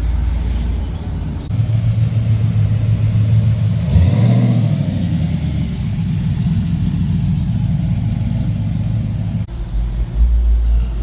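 Car engine running with a deep exhaust rumble, rising briefly about four seconds in, with abrupt changes that sound like cuts between cars.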